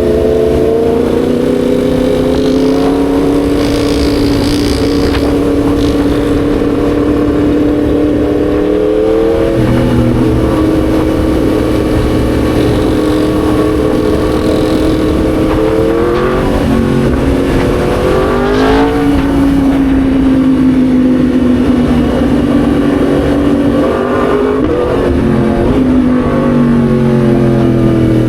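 Yamaha MT-10 SP's 998 cc crossplane inline-four engine running under way, holding a steady pitch, climbing and dropping sharply several times as the rider works the throttle and gears, then falling away near the end as the bike slows.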